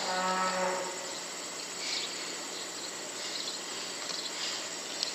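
Dairy-farm ambience: a cow's moo trails off in the first second, followed by a steady background of faint, high chirping.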